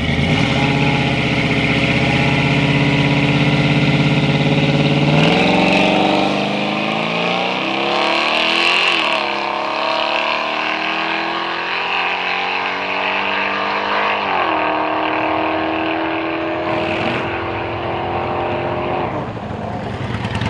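A supercharged car's engine held steady at the start line, then launching down the drag strip about five seconds in: the engine pitch climbs hard, drops twice as it shifts up, and fades as the car pulls away.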